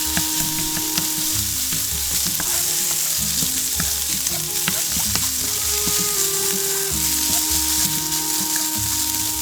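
Fried rice sizzling in a hot pan as it is stirred, with a steady hiss and scattered clicks of the spatula against the pan. Background music with held notes plays underneath.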